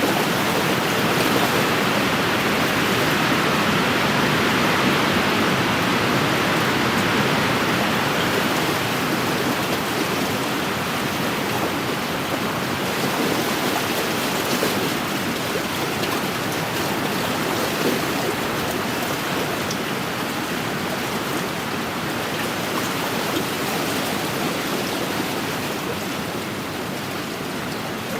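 Wind-driven waves washing on an inland lakeshore, with a steady rush of wind. An even, continuous rushing that swells slightly in the first several seconds, then eases.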